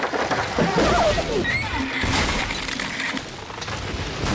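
Wooden telephone poles splintering and crashing down as a pickup truck pulls them over, the wood sounding rotten, with shouts over the crash.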